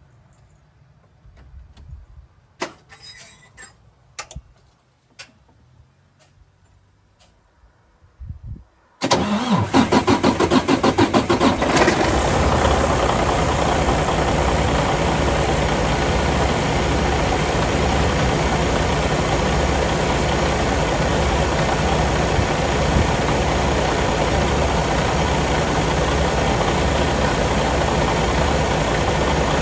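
A few light clicks and knocks, then the Freightliner Cascadia's diesel engine cranks in quick pulses for about three seconds, starting about nine seconds in, catches and settles into a steady idle. This is the first start after its fuel valve seals were replaced.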